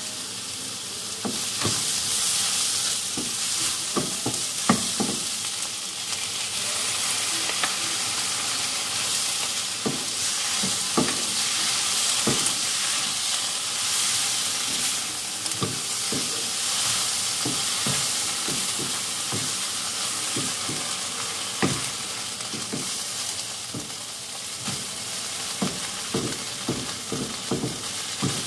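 Spanish chorizo slices and chopped vegetables sizzling in freshly added tomato sauce in a frying pan, stirred with a wooden spatula. The spatula scrapes and knocks against the pan now and then, more often near the end.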